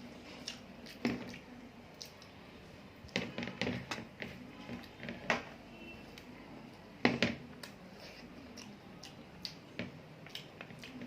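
Close-up eating sounds: irregular chewing, mouth clicks and soft wet squelches of rice and vegetables being eaten.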